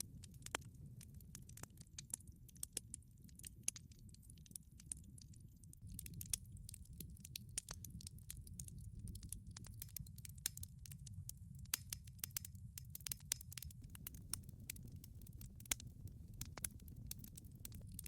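Wood fire burning in a wood-fired pizza oven: dense, irregular crackling with sharp snaps over a low, steady rumble of the flames.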